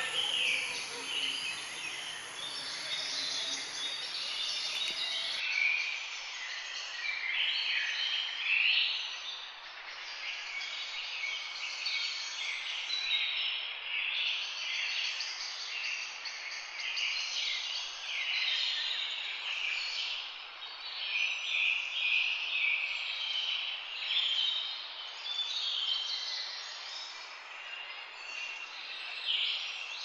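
A dense chorus of many birds chirping and calling, with short call notes overlapping throughout. A faint low rumble and a thin high whine under the calls stop about five seconds in.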